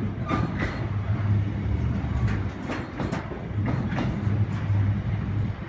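Container freight train wagons rolling past, a steady low rumble with repeated sharp clicks of the wheels on the track.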